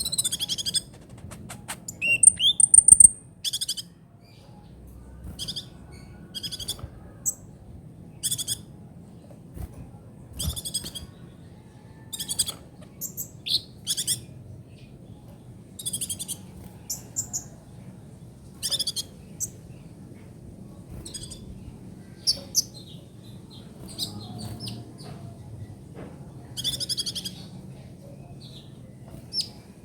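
Kolibri ninja sunbird singing in short, high-pitched, rapid trilled phrases, repeated every second or two, over a faint low hum.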